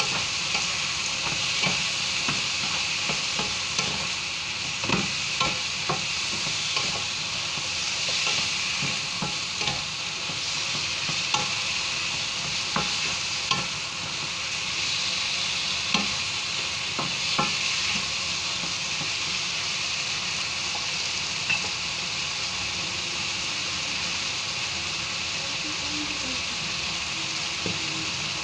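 Chicken pieces with onion and tomato sizzling steadily in a frying pan, sautéing for a chicken curry. A wooden spoon stirs them, with sharp knocks and scrapes against the pan, frequent at first and only a couple near the end.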